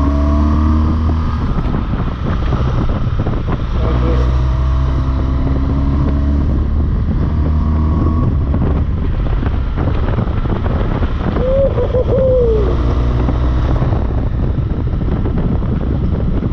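BMW R1200GS Rallye's boxer-twin engine running under load on a climbing ride, its note breaking off briefly about two seconds in and again around the middle, over steady wind noise on the microphone.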